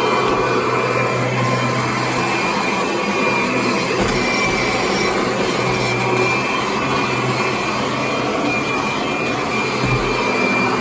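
Kirby Sentria upright vacuum cleaner running steadily, a loud motor whine with a constant high tone and low hum.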